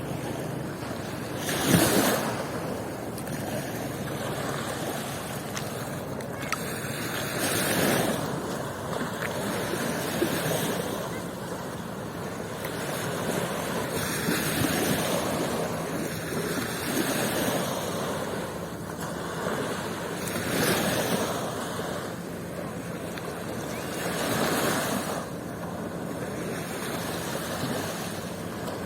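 Sea waves breaking on a beach: a steady wash of surf that swells and falls every few seconds, with a louder surge about two seconds in.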